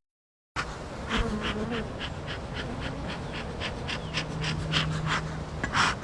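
Honey bees buzzing around an opened hive, starting after about half a second of silence. Regular soft puffs of air run over the buzzing, about three a second and growing louder near the end, from the bee smoker's bellows being pumped.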